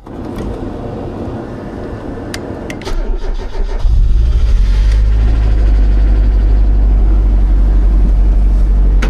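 Mazda Miata four-cylinder engine being cranked by the starter for about three seconds, then catching and running steadily. It is running on a second, jumper-connected battery because the snapped alternator belt means nothing is charging.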